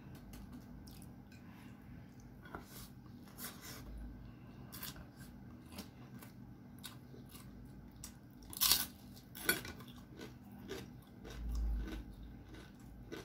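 A person chewing and crunching food close to the microphone while eating with her hands, with scattered small crunches and two sharper, louder crunches about two-thirds of the way in. A low, dull thump comes near the end.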